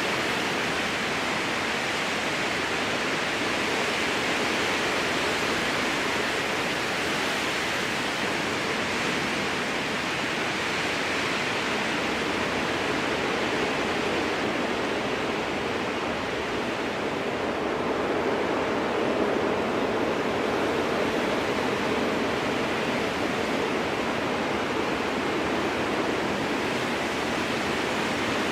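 Strong wind blowing steadily through spruce trees, a continuous rushing hiss of needles and branches. Its tone drops lower for a few seconds about halfway through, then evens out again.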